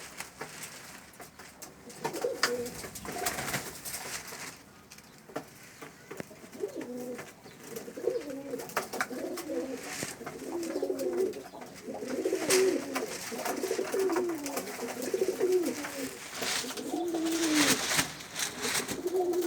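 Domestic pigeons cooing over and over, low wavering coos that become steady from about a third of the way in, with scattered short sharp rustles or taps between them.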